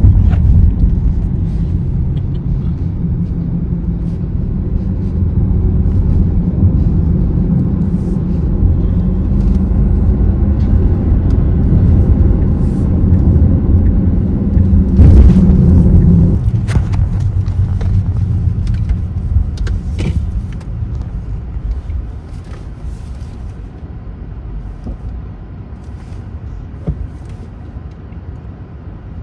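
Low rumble of a car on the move, heavy for the first sixteen seconds or so and then dropping off sharply to a quieter rumble, with faint scattered clicks.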